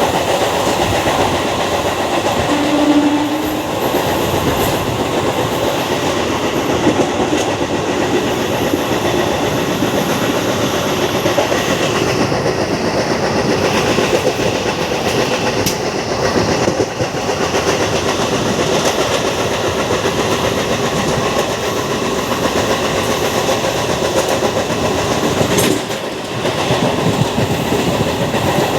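MEMU electric train running at speed, its wheels clattering steadily over the rails, with a brief low tone about three seconds in.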